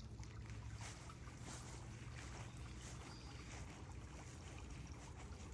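Faint steady low rumble with soft background hiss: ambient noise, no distinct event.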